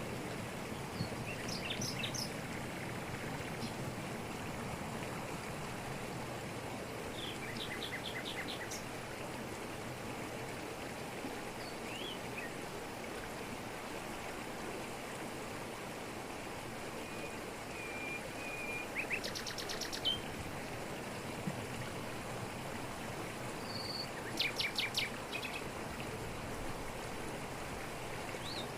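Waterfall cascading over rocks, a steady rush of water, with a bird calling over it now and then in short rapid series of notes and single chirps.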